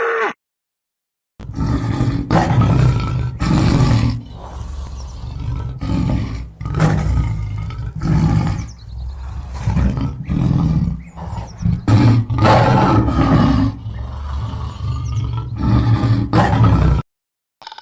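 A big cat roaring in a long series of deep, loud roars, about one a second, starting about a second and a half in and cutting off suddenly near the end.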